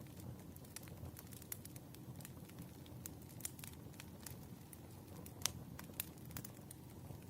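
Wood fire burning in a fireplace: a low steady rumble with irregular crackles and sharp pops, the loudest pop about five and a half seconds in.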